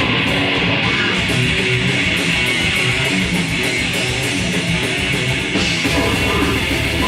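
Grindcore band playing live: a heavily distorted electric guitar and bass riff, loud and dense, with cymbals coming in near the end.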